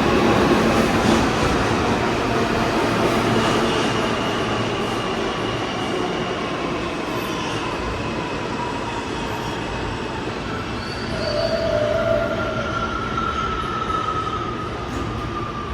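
New York City subway train running through the station with steel wheels squealing on the rails, several thin squeals that drift in pitch, over a steady rumble that slowly fades.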